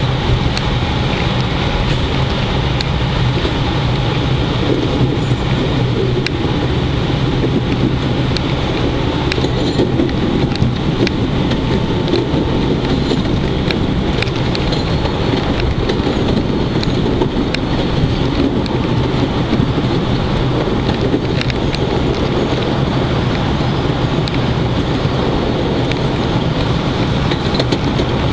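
PATH train running along the track, heard on board: a steady rumble of wheels and running gear with a low hum and occasional sharp clicks.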